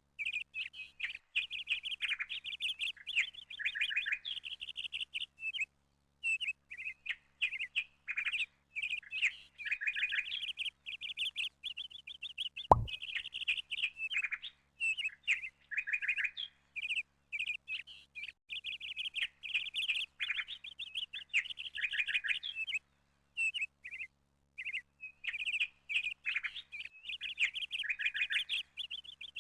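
Small birds chirping and twittering in quick runs, almost without pause, with one sharp click about thirteen seconds in.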